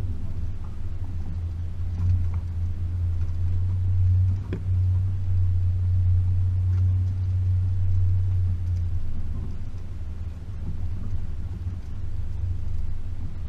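Range Rover P38's 4.0-litre V8 running at low, steady revs as the vehicle drives. Its deep drone grows louder for a few seconds, then eases off after about nine seconds, with a single knock about four and a half seconds in.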